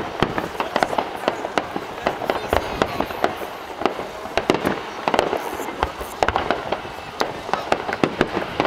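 Fireworks display going off in a dense, unbroken stream of sharp cracks and bangs, several every second.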